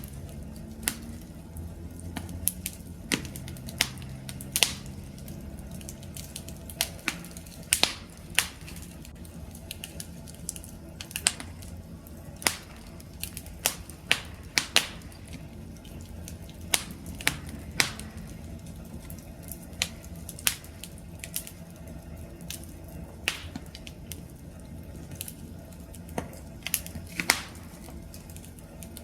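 Wood campfire crackling, with irregular sharp pops and snaps over a low steady rumble of burning.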